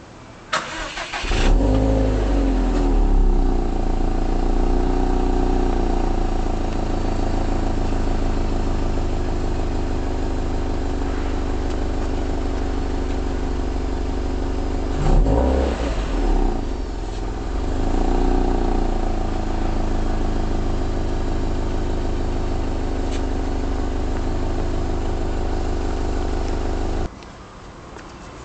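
Subaru Impreza WRX STI (GRB) flat-four engine cranked by the starter, catching about a second and a half in with a short rise in revs, then settling into a steady idle heard through the exhaust. There is a brief surge in the middle, and the engine is shut off shortly before the end.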